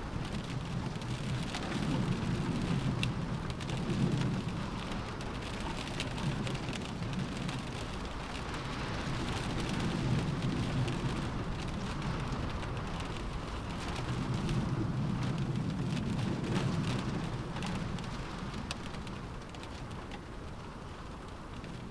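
Steady rain hitting a window pane, with many small drop taps, over a low rumble of wind that swells and eases every few seconds.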